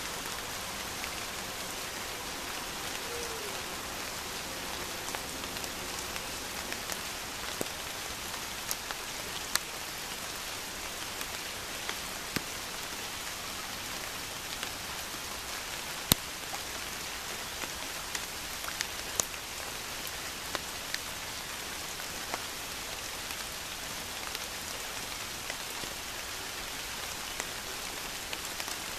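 Steady rain falling on a lake's surface: an even hiss dotted with scattered sharp ticks of single drops, the loudest a little past halfway.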